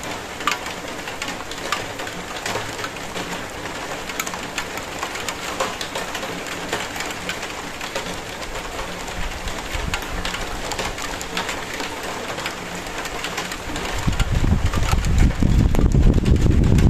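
Steady rain, with individual drops ticking sharply on a hard surface. About fourteen seconds in, a low rumble rises and grows louder.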